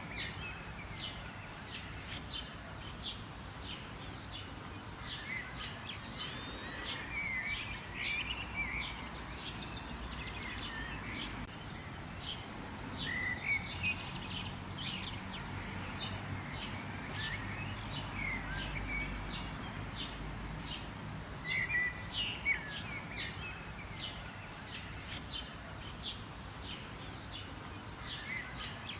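Many small birds chirping and singing at once, quick overlapping chirps and twittering phrases without a break, over a faint low rumble of background noise that swells a little about two-thirds of the way through.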